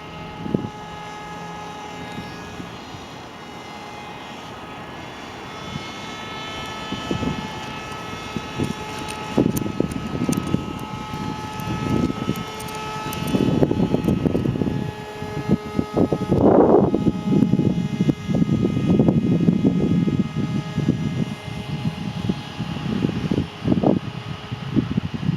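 Small foam-board RC airplane's motor and propeller whining steadily in flight, its pitch drifting a little with throttle and distance. Irregular low rumbling comes and goes over it, heavier in the second half.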